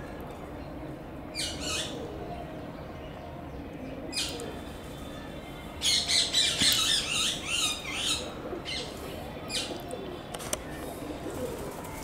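Harsh, squawking bird calls: single short calls about one and a half and four seconds in, a busy run of overlapping calls from about six to eight seconds, and a few more short calls near the end.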